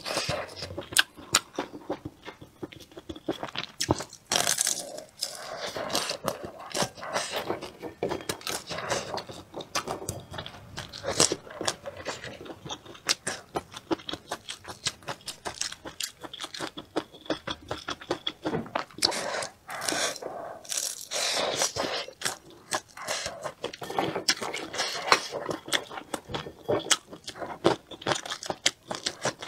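Close-miked chewing and biting of grilled pork sausages: a steady stream of wet mouth clicks, smacks and crunches, with short pauses between mouthfuls.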